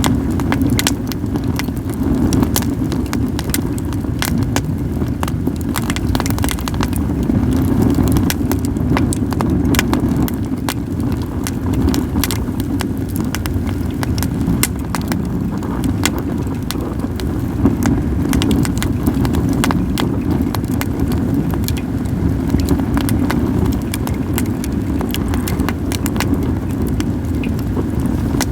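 Campfire of acacia and other firewood crackling, with frequent sharp pops, over a steady low rumble of wind on the microphone.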